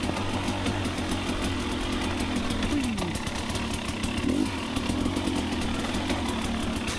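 Two-stroke dirt bike engine running at low, fairly steady revs, with a drop in pitch about three seconds in and a brief blip of throttle about a second later.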